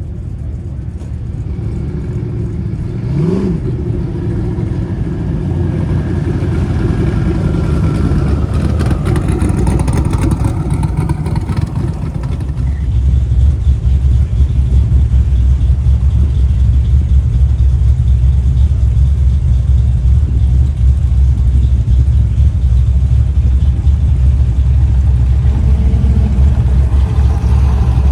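Classic car engines driving past, with a quick rev that rises and falls about three seconds in. From about halfway through, a deep engine rumble grows louder and holds steady to the end.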